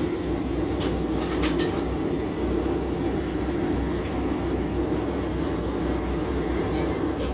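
Propane gas forge burners running with a steady rushing noise and low rumble, with a few light clicks a second or so in.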